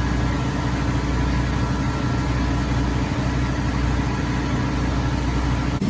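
An engine running at a steady speed with a low, even drone that does not rise or fall, cut off abruptly just before the end.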